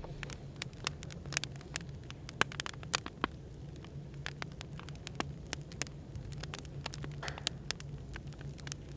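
Wood fire crackling, with irregular sharp snaps and pops, over a steady low hum of background noise.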